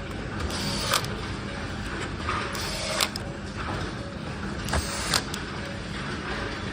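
Battery case being handled and fitted by hand: a handful of sharp clicks and knocks, a second or two apart, over a steady low hum.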